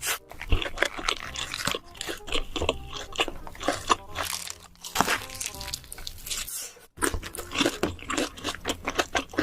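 Close-miked mukbang eating: rapid crunchy bites and chewing of crisp food, many sharp crunches in quick succession, with a short break about seven seconds in.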